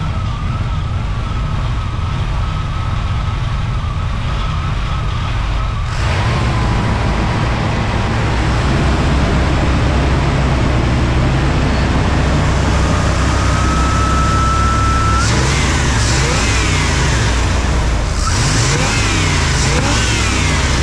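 Chevy 350 small-block V8 running at a steady idle, a little louder from about six seconds in. Near the end it is revved up and down several times in quick succession.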